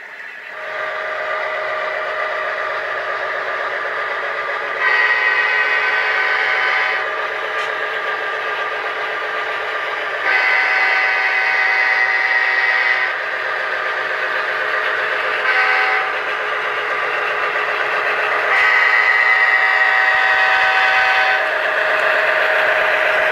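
Sound-equipped HO scale model diesel locomotive running, its engine drone steady, while its horn blows four blasts: long, long, short, long, the grade-crossing signal.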